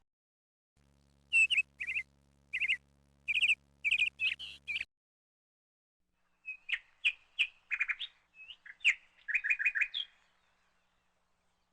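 Songbirds chirping in two bursts. The first is a run of short, quick chirps. After a pause of about a second and a half comes a faster, more varied run of chirps and trills.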